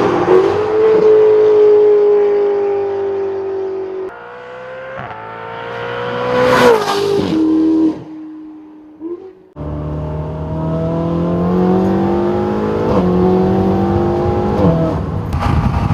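Ferrari 488 GTB's twin-turbo V8 through a Novitec race exhaust with the catalysts removed, revving: a held note that slowly falls, a sharp rise and drop about halfway, then after an abrupt break the engine pulling hard with its pitch climbing and stepping up twice.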